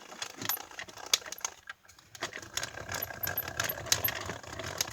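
Scattered clicks and light metallic rattles from a thin metal cutting die and cutting plates being handled and stacked with paper for a die cutting machine. The clicks come more often from about two seconds in.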